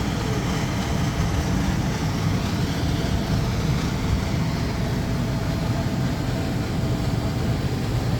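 Walk-in freezer condensing unit with a 1.5 hp single-phase hermetic compressor running steadily on its first test run after replacement: an even mechanical hum and whir.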